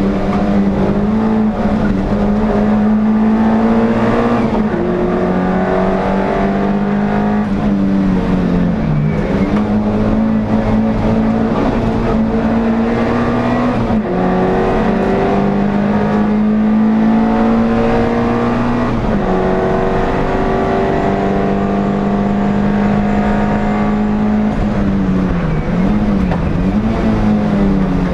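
NSU TT race car's air-cooled rear-mounted four-cylinder engine, heard from on board at full race effort. The revs climb slowly in long pulls and drop briefly about six times, once or twice in a quick double dip near the end.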